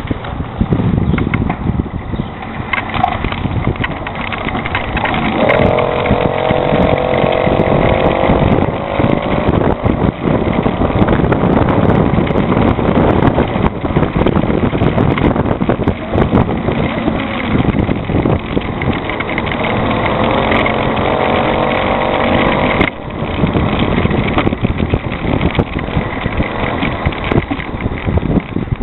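Motorized bicycle engine running under way, with the rush of riding behind it; the engine's pitch rises as it speeds up about a fifth of the way in and again about two-thirds through.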